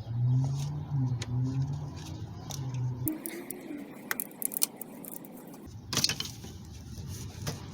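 Metal hand tools clinking and tapping: sockets and a ratchet being handled as a different-sized socket is tried on a bolt, in scattered sharp clicks with a louder clink about six seconds in.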